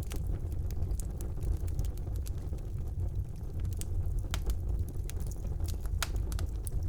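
Wood fire burning in a fireplace: a steady low rumble of the flames with irregular sharp crackles and pops of the burning logs, a few louder snaps among them.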